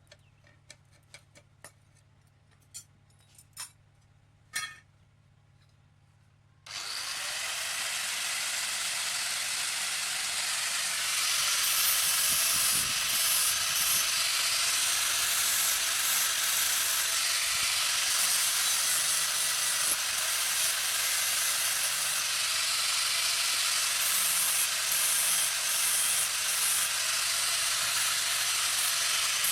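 A few light clinks of metal being handled, then about a third of the way in a workshop tool starts abruptly with a loud, steady rushing noise. It runs on without a break, growing louder a few seconds after it starts.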